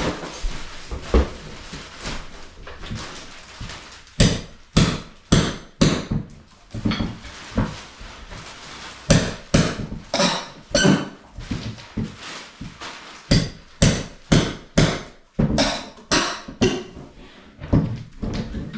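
Hammer blows in runs of about two strikes a second, broken by short pauses.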